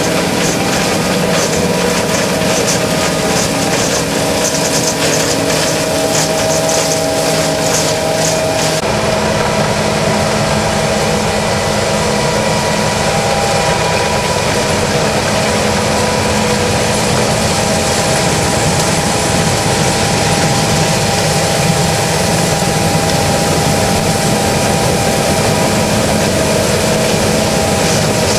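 John Deere S660i combine harvester running steadily, a loud machine drone made of several steady tones. About nine seconds in, the sound changes abruptly: the high hiss drops away and a lower tone takes over.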